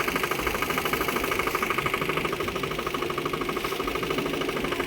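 Boat's motor running steadily with a fast, even beat.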